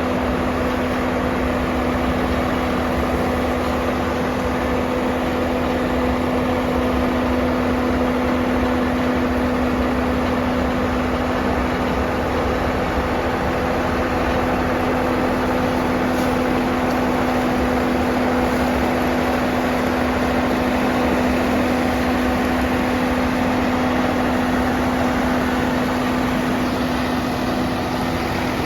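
Swaraj 969 FE tractor's diesel engine running at a steady speed, driving a rotavator in creeper gear, with a constant low hum that does not change.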